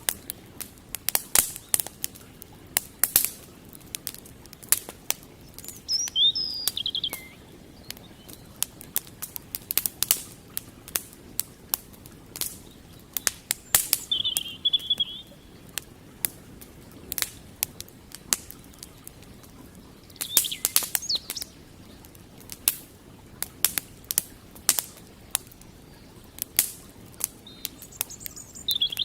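Campfire wood crackling, with sharp irregular pops and snaps, over a low steady background rush. A few short bird calls break in: a falling call about six seconds in, a brief trill around fourteen seconds, and another near the end.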